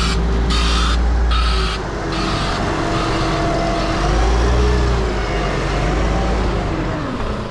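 Large truck engine running with a reversing beeper beeping about every 0.7 seconds, which stops a couple of seconds in. The engine then revs up and settles back.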